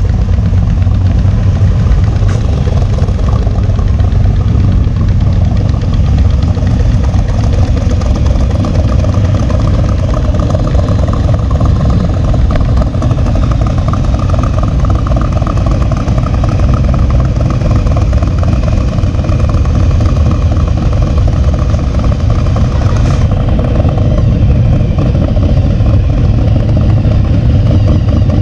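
A vehicle engine running steadily as a loud, low drone with no change in pace.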